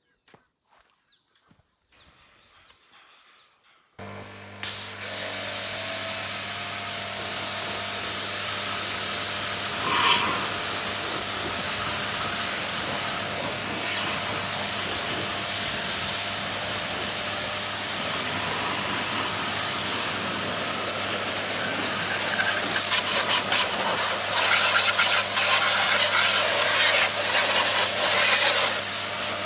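Electric pressure washer starting up about four seconds in: its motor hums steadily under the loud hiss of the water jet spraying the motorcycle, and the spray turns rougher and a little louder near the end.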